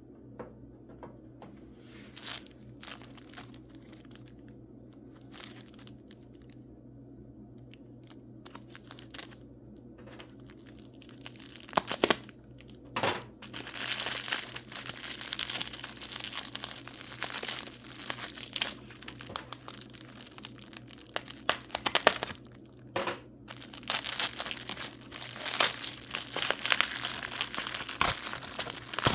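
Packing wrap crinkling and tearing as a wrapped mineral specimen is unwrapped by hand. There are a few scattered rustles at first, then steady crumpling from a little under halfway through, with a brief pause near the end.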